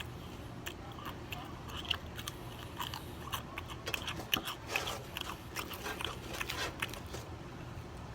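Close-miked chewing and biting into crispy fried chicken, with wet open-mouth smacking and crunching in many short, irregular clicks.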